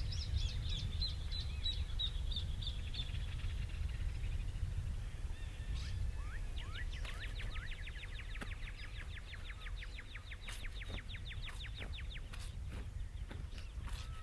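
Wild birds calling over a steady low rumble: a series of repeated calls fades out in the first few seconds, then about halfway through a fast trill of many short notes, each dropping in pitch, runs for about five seconds, followed by a few sharp clicks.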